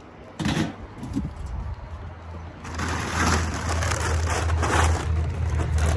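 Footsteps crunching through snow, with a steady low rumble joining about halfway through as the crunching grows denser.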